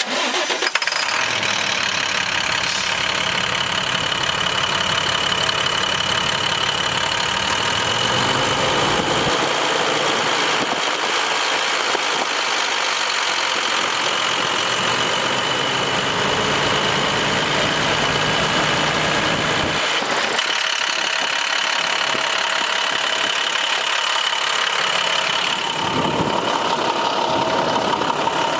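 International MaxxForce DT inline-six diesel engine running steadily at idle.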